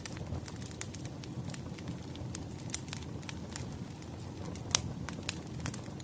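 Wood fire crackling: irregular sharp pops and snaps over a steady low rumble of burning logs, with one louder pop near the end.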